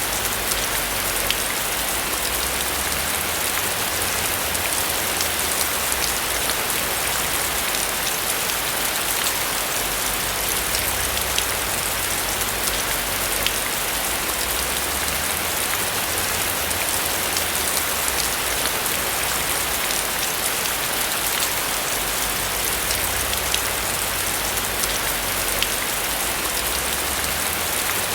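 Steady rain falling on a roof: a dense, even patter with many individual drop ticks, over a faint low rumble that swells and fades.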